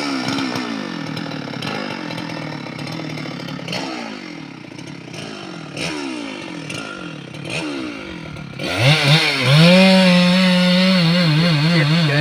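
Two-stroke chainsaw engine being revved and dropping back several times, then revved up about nine seconds in and held at high speed, its pitch wavering slightly.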